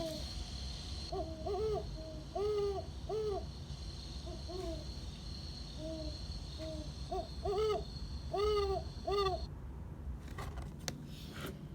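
Great horned owl hooting: two series of deep hoots, the second starting about four and a half seconds in.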